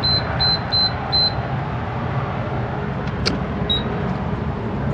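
Electronic beeping: a quick run of short high-pitched beeps in the first second or so, then a single sharp click and two lone beeps, over a steady low hum.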